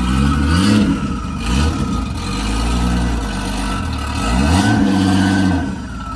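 A 1988 Nissan 300ZX (Z31) engine revved in a series of short throttle blips, its pitch rising and falling about once a second and then held a little longer, as the car creeps under light load onto a trailer. A steady high whine runs along with it.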